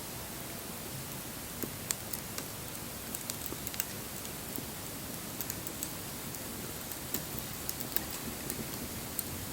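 Wood bonfire burning: a steady hiss of flames with irregular sharp crackles and pops.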